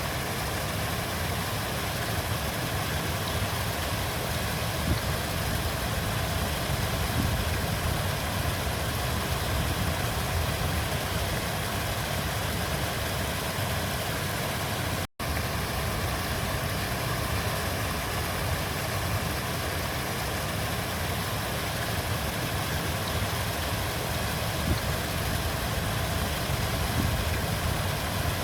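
Steady rushing of a flowing river, a deep, even wash of water with no pauses. It cuts out for an instant about halfway through.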